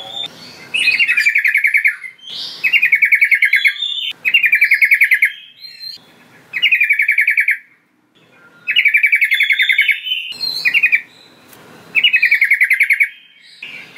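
Sooty-headed bulbul (trucukan) singing: about seven bubbling phrases of rapid notes, each about a second long, with short pauses between them. It is a call recording of the kind played to lure other trucukan.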